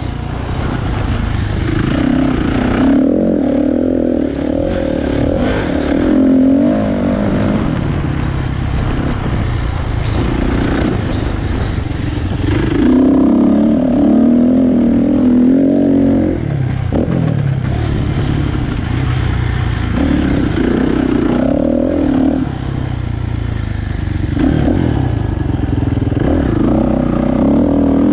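Kawasaki dirt bike engine revving hard, its pitch rising and falling over and over as the throttle is opened and closed around a track.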